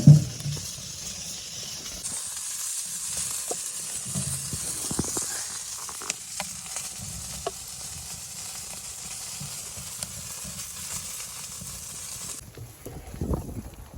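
A steady sizzling hiss with scattered small clicks and a dull thump at the start; the hiss cuts off suddenly near the end.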